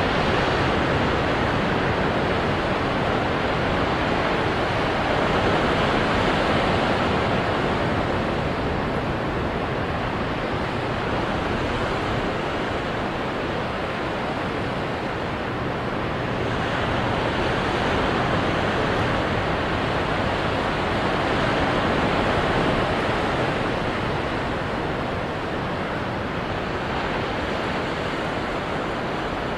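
Ocean surf breaking on rocks: a continuous rush of water that swells and eases slowly as waves come in.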